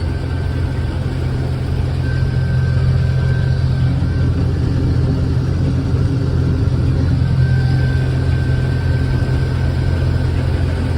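Combine harvester running while cutting wheat: a steady low drone of the engine and threshing machinery, with a faint high whine that comes in twice.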